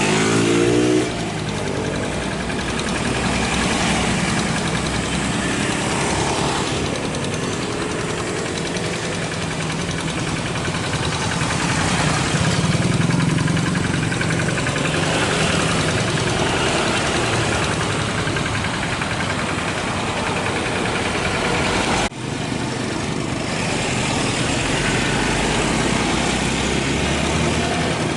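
An engine running steadily at idle, with a brief rising whine in the first second and a sudden break about 22 seconds in.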